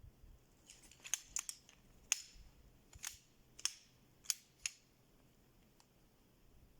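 A run of about eight short, sharp clicks or snaps, irregularly spaced over about four seconds.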